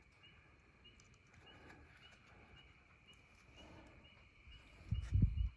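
Night insects chirping steadily, a small high chirp about twice a second over a constant high drone. Near the end comes a short, louder low thumping, a bump or handling noise close to the microphone.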